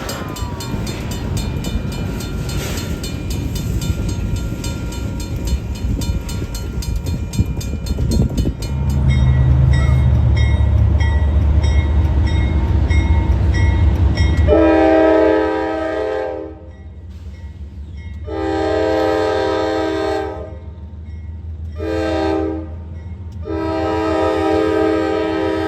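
Freight train rolling with wheel clicks. About nine seconds in, a diesel locomotive's engine rumble swells. From about fifteen seconds its air horn sounds several notes together in four blasts, long, long, short, long: the grade-crossing signal.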